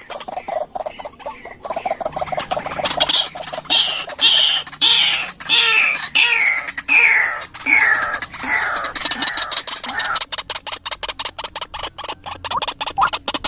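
White-breasted waterhen (ruak-ruak) calling: a run of harsh notes, with loud falling calls about twice a second. From about ten seconds in, these give way to a fast clicking series.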